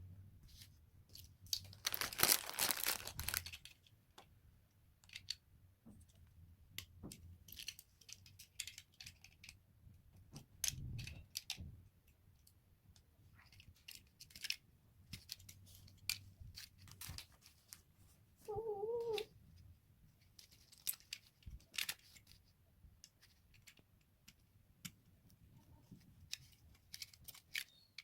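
Small plastic LEGO pieces clicking and tapping as they are handled, with a loud rustle about two seconds in. About two-thirds of the way through comes one short, wavering, cat-like meow.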